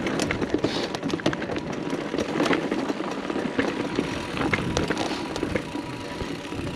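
Mountain bike rolling fast down a dirt singletrack: steady tyre noise over the ground, with frequent small clicks and rattles from the bike over rough spots.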